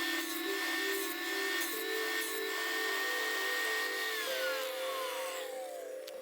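An electric drill running steadily with a high whine, then released: its pitch falls as it winds down over the last two seconds. Background music plays under it.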